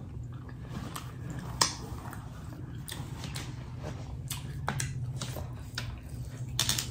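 Close-up eating sounds of someone chewing seafood, with scattered sharp clicks and wet smacks. One louder click comes about a second and a half in, and a quick run of clicks comes near the end.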